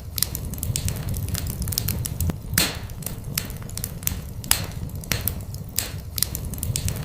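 Wood fire crackling in a fireplace: irregular sharp snaps and pops, a couple of louder pops about two and a half and four and a half seconds in, over a steady low rumble of the flames.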